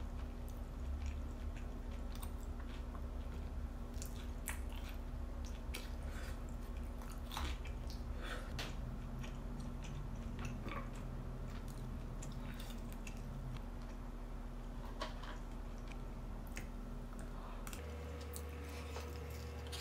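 A person biting and chewing fried chicken, with scattered short crunches and clicks, over a steady low hum.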